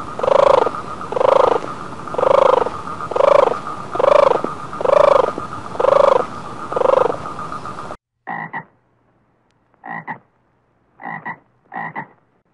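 Frog croaking about once a second, a loud, evenly spaced call over a steady background drone. About two-thirds of the way through the sound cuts to a different recording with four short croaks spaced apart over quiet.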